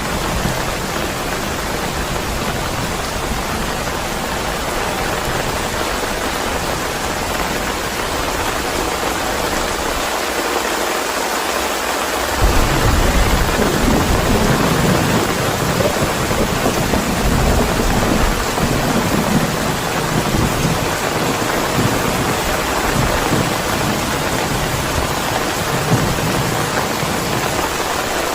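Steady heavy rain hissing. About twelve seconds in, a low thunder rumble starts suddenly and keeps rolling in waves beneath the rain.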